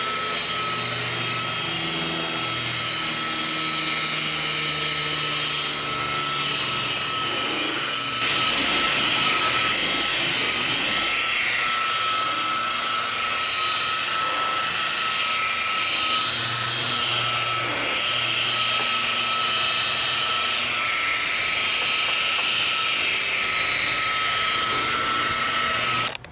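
Electric rotary buffer running at low speed, polishing the paint on a car's hood: a steady motor whine with a constant high tone over a rushing noise, wavering as the pad is worked across the panel. It cuts off suddenly at the very end.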